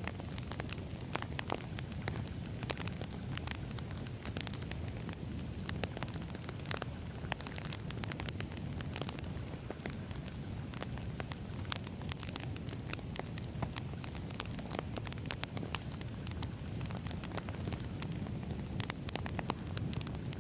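Wood fire burning: a steady low rumble of flames with frequent irregular sharp crackles and pops from the burning logs.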